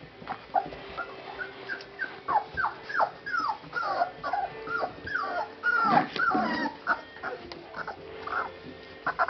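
Month-old puppies whimpering, a string of short high cries, about two or three a second.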